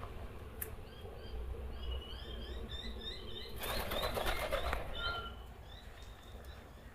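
A bird's wings flap loudly for about a second, midway through. Birds chirp throughout in short, repeated high notes.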